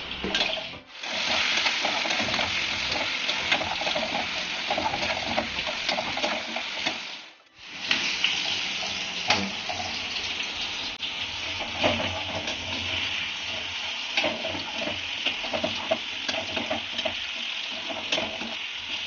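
Diced potatoes sizzling as they fry in hot oil in a steel kadai, stirred with a perforated metal spoon that clicks and scrapes against the pan. The sound cuts out briefly twice, about a second in and again around seven and a half seconds.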